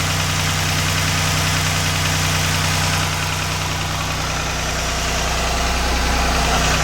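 Volvo three-cylinder marine engine idling steadily, heard up close in its engine compartment, running smoothly after starting right up following months of dormancy.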